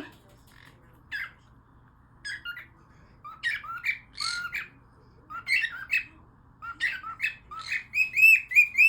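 Pet parrot making short squawks and chirps: a few scattered calls at first, then quicker from about three seconds in, with a close run of calls near the end.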